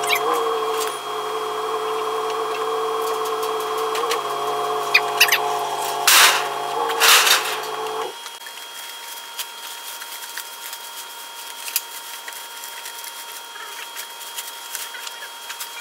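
A motor running steadily with a pitched hum, a few sharp clicks over it, then switched off suddenly about eight seconds in; scattered faint clicks follow.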